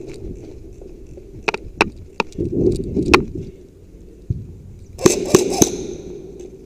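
Airsoft guns firing: a few scattered single shots in the first half, then a quick string of shots about five seconds in.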